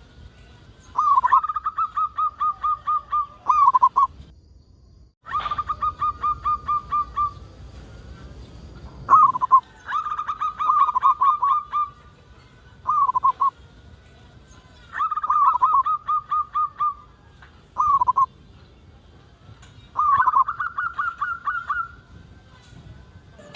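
Zebra dove (perkutut) cooing: repeated phrases of quick, pulsed coos, each a second or two long, with short single drooping notes between them and brief pauses between phrases.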